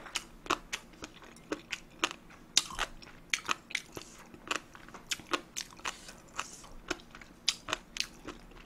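Close-miked chewing: a mouthful of food being chewed with a string of short, wet mouth clicks and smacks, a few a second at uneven spacing.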